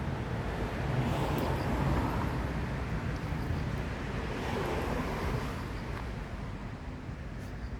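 Steady outdoor rushing noise over a low rumble, swelling twice and easing off near the end.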